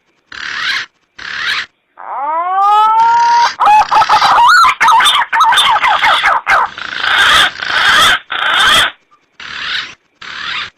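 Green pigeon (punai) calls from a lure-call recording. Two short rasping calls are followed by a whistled note that slides upward, then a long busy run of warbling and rasping calls, and two more short rasps near the end.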